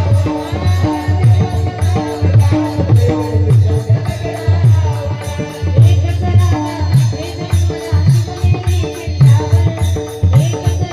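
Devotional kirtan music: pakhavaj drum strokes and jingling percussion keep a steady rhythm under a repeating melody, with no clear singing.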